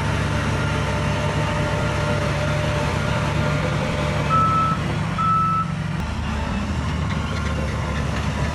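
Heavy diesel earth-moving machinery running with a steady low rumble. About halfway through, a reversing alarm gives two short beeps, and the engine note drops slightly soon after.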